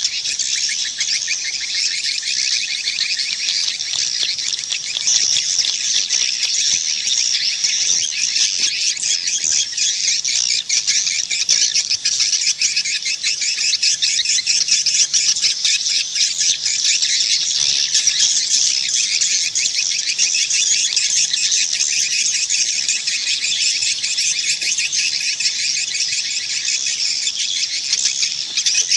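Swiftlets twittering: a dense, unbroken chorus of rapid, high chirps. This is the swiftlet call sound played to lure the birds into a nest house.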